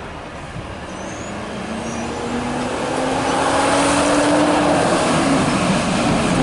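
A road vehicle's engine approaching and speeding up, growing steadily louder as its pitch climbs slowly.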